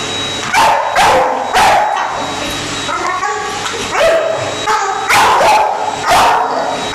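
A dog barking repeatedly, about once a second, at a running vacuum cleaner, whose steady whine and hum go on underneath.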